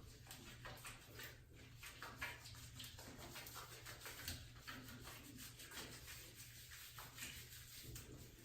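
Faint, scattered small splashes and handling noises of water as a cat is washed, a string of irregular soft clicks and dabs with no voice.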